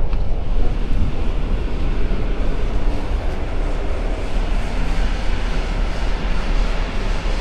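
Passenger train running along the track: a steady, loud rumble and rush of wheel and running noise.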